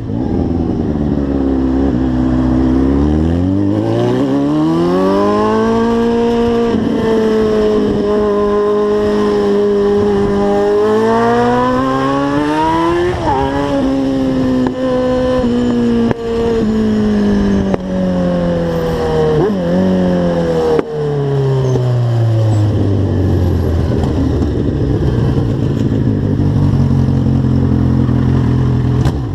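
Motorcycle engine under way: the revs climb over the first few seconds, hold steady, climb again, then wind down gradually over about ten seconds as the bike slows.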